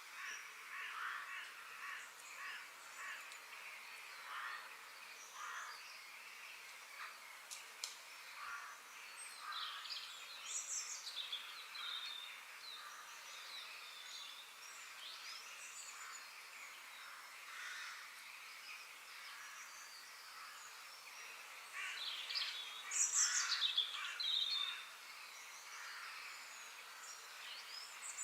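Wild birds chirping and calling in short, high-pitched notes over a faint steady background, with a louder flurry of calls about three quarters of the way through.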